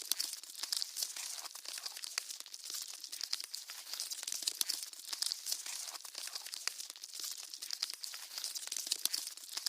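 Caterpillar chewing a leaf, close-miked: a continuous dense crackle of tiny crunching clicks.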